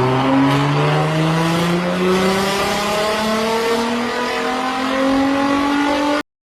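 Car engine accelerating hard: one long, steady rise in pitch that cuts off abruptly near the end.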